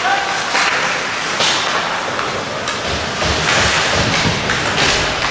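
Ice hockey game in an arena: skates carving and scraping the ice in repeated hissing strokes about once a second, over the rink's general din, with some low rumbling in the middle.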